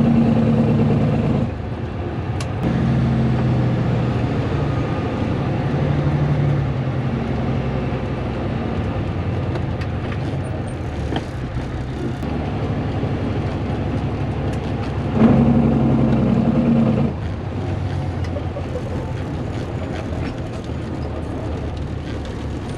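Caterpillar C10 inline-six diesel in a Peterbilt cabover, straight-piped with the muffler removed, running loud under way. Its note shifts: it drops about a second and a half in and gets louder for a couple of seconds around the middle.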